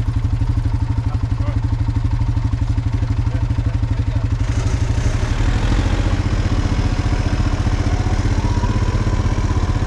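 Honda four-wheeler's single engine running with a fast, even pulse, picking up about halfway through as it revs and moves off.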